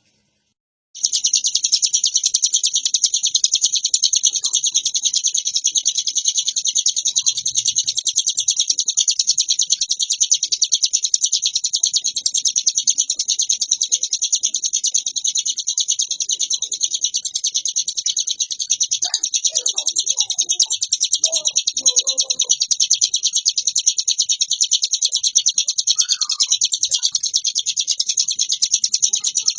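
Ciblek gunung, a small prinia, singing a non-stop, very fast, high-pitched chattering trill: the continuous rolling song that bird keepers call 'ngebren'. It starts about a second in after a brief silence and runs on without a break.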